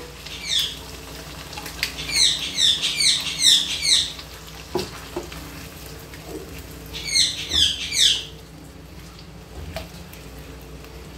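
A bird chirping in quick runs of high notes that slide downward, in two bursts of several calls each. Under it, tomato paste and liver are stirred in a frying pan with a spatula, with a few light knocks and a steady low hum.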